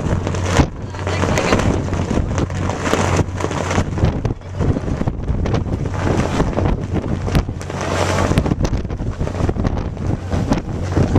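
Wind buffeting the microphone in gusts over the steady low drone of a ferry's engine.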